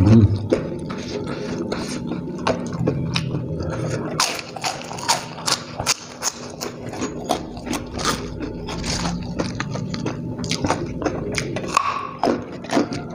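A person chewing a mouthful of smashed fried chicken (ayam geprek) and rice close to the microphone, with frequent short wet smacks and clicks of the mouth.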